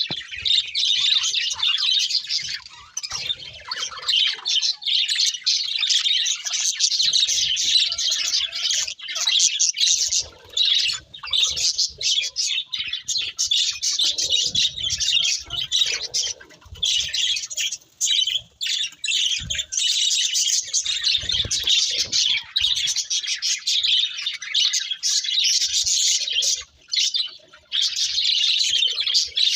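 Budgerigars chattering and warbling: a near-continuous stream of high chirps and twitters with only brief pauses.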